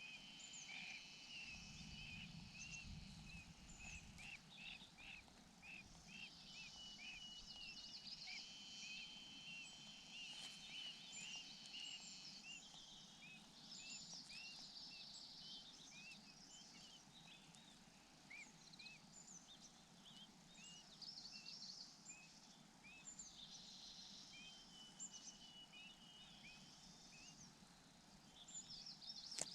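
Faint bird chirping: many short, high chirps in quick runs, over a steady high thin trill. A low rumble comes in from about one to four seconds in.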